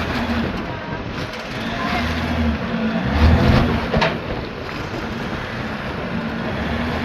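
Off-road Jeep engine running in low range, rising and falling as it is worked over the rocks, with louder pulls about two and three seconds in. There is a brief sharp sound about four seconds in.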